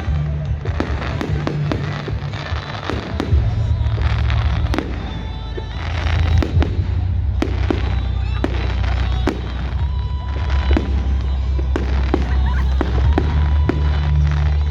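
Fireworks display: a rapid string of sharp bangs and crackling bursts from exploding shells, one after another. Music with a heavy, steady bass plays underneath.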